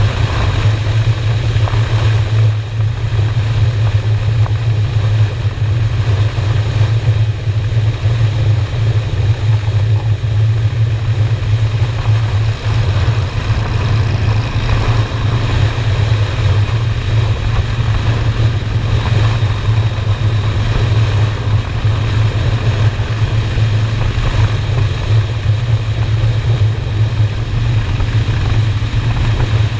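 Honda Shadow V-twin motorcycle engine running steadily at cruising speed, with a constant low drone and rushing wind and road noise.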